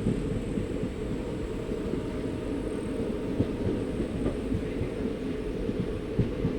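Passenger train running along the track: a steady low rumble, with a couple of sharp knocks from the running gear.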